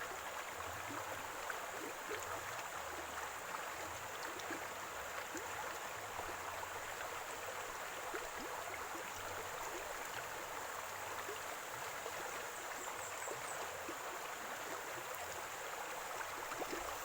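Running stream water gurgling steadily, a constant rush dotted with many small splashes and drips.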